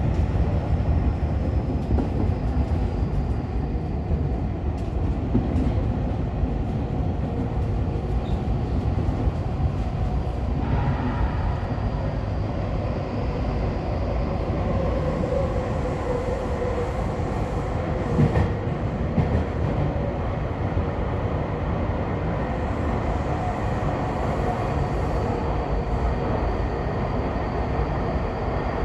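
Commuter train running at speed, heard from inside the front car: a steady rumble of wheels on the track with a faint whine that drifts in pitch, and one sharp knock about two-thirds of the way through.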